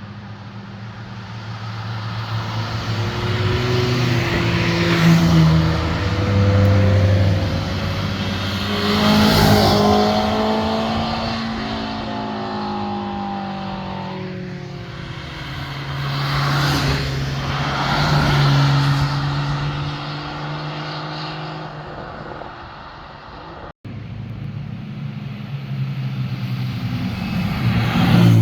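Several cars driving past one after another, engines revving up and down through the gears as each one passes. The loudest passes come about five and ten seconds in, around seventeen to nineteen seconds, and at the very end.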